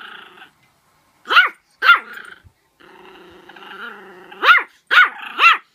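A dog barking at its own reflection in a mirror: two sharp barks, a low growl for about a second and a half, then three more barks in quick succession near the end.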